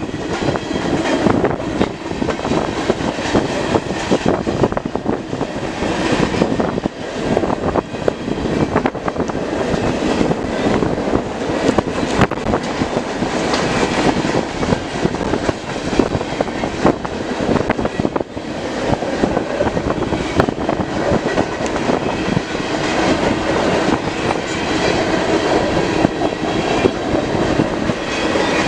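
CN manifest freight train's cars rolling past, a steady loud rumble with the wheels clacking over rail joints.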